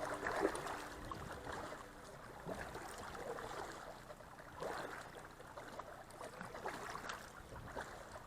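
Kayak paddle strokes dipping and swishing through river water, a soft splash every second or two.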